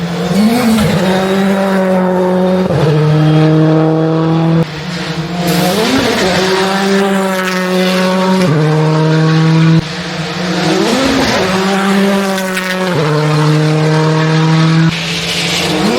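Rally cars driven flat out on a special stage, engines revving high and held, with quick rising revs between gear changes. The sound cuts abruptly every few seconds from one car or spot to the next.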